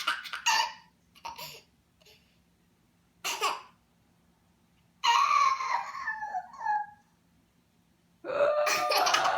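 A toddler and a woman trading silly vocal noises and laughter, in short separate bursts with pauses between them; the longest, from about five to seven seconds, wavers up and down in pitch.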